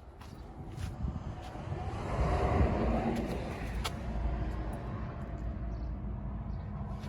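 A road vehicle passing: its engine and tyre noise swells to a peak two to three seconds in and then slowly fades, with a single sharp click about four seconds in.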